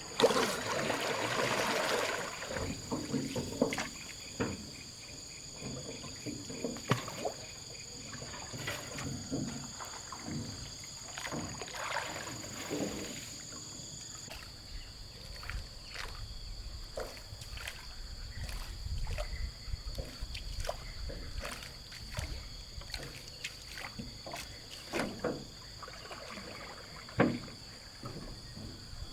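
Scattered water splashes and knocks around a small boat, with a louder splash in the first two seconds, over steady high-pitched insect calls.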